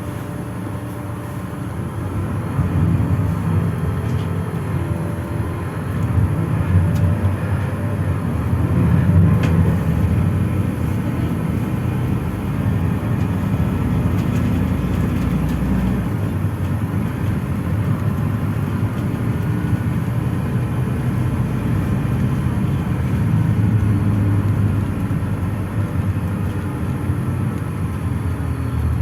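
PAZ-422320-14 Citymax 9 city bus heard from inside the passenger cabin while driving: a steady low engine and road rumble that grows louder about two to three seconds in as the bus gathers speed, then holds.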